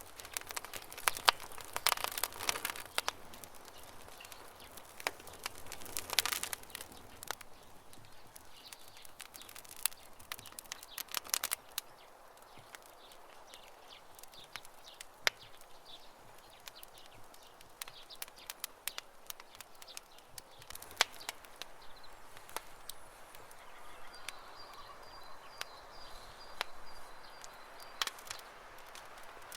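Campfire crackling, with sharp pops and snaps of burning wood that come in clusters, and birds chirping in the background, including a rapid high trill near the end.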